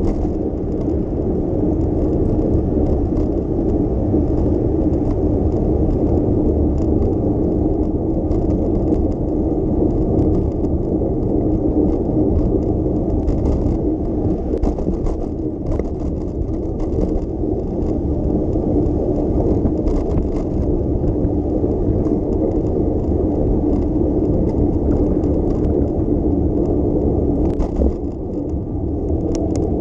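Steady low rumble of a bicycle ride over wet city roads: tyre noise on damp pavement with wind on the microphone, and occasional faint rattles.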